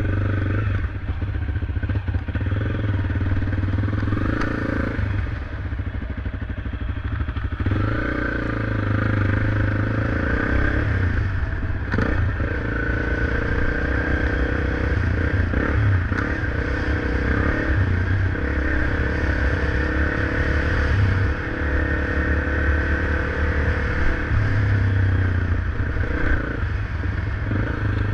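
Motorcycle engine running steadily while being ridden, its pitch shifting a little with speed, with a few knocks and rattles along the way.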